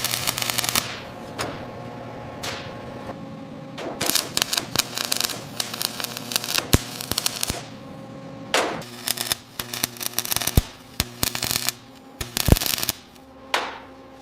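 Rapid runs of sharp clicks and knocks, with single louder knocks between them, over a steady low hum. A short whoosh swells and fades about eight and a half seconds in, and another near the end.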